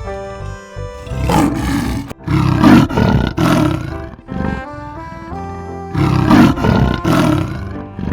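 Tiger roaring several times in loud rasping bursts, with a pause of about two seconds midway, over steady background music.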